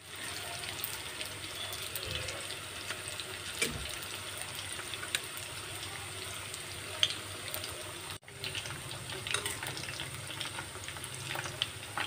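Flour-battered chicken pieces deep-frying in hot oil in an aluminium wok: a steady sizzling hiss with scattered crackles and pops, broken briefly about eight seconds in.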